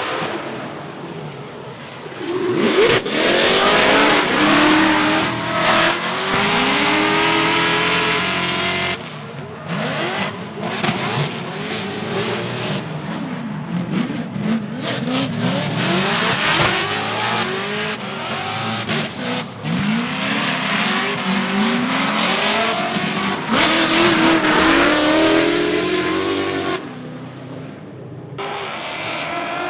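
Drift cars on track, engines revving up and down hard with tyre squeal, in several clips cut together with sudden changes.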